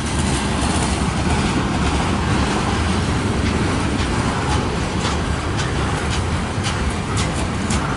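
Freight train cars rolling past close by: a steady rumble of steel wheels on rail, with a few sharp clicks from the wheels in the second half.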